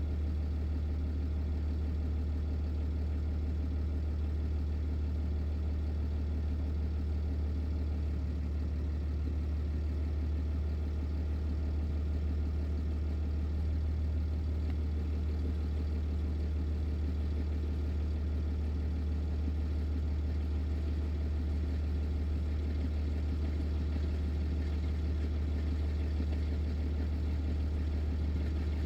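Semi truck's diesel engine idling, a steady low drone that stays even throughout.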